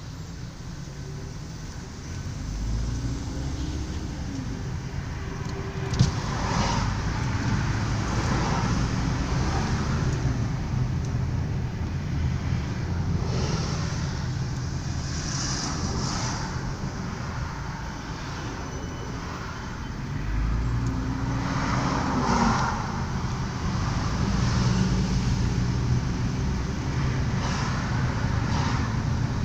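A car driving along a road: steady engine and tyre noise, with the engine note rising and falling twice as it picks up speed. One sharp click about six seconds in.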